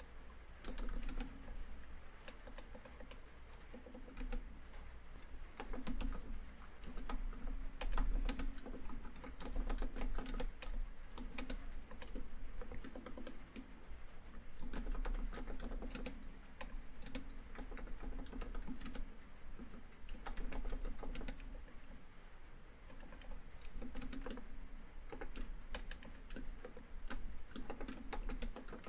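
Typing on a laptop keyboard: irregular runs of quick keystrokes with short pauses between them. Underneath is steady rainfall on a tin roof.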